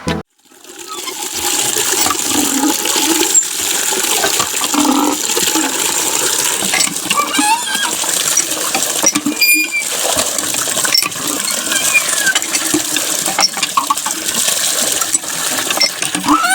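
Water spraying and splashing steadily, with scattered small ticks and splatters.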